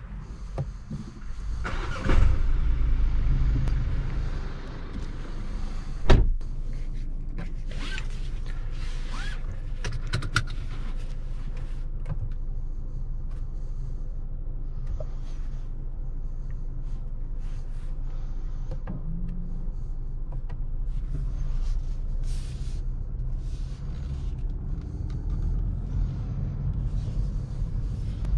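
BMW X1 sDrive18d's four-cylinder diesel engine starting about two seconds in with a brief flare of revs, then settling into a steady idle, heard from inside the cabin. A sharp click about six seconds in and scattered light clicks over the idle.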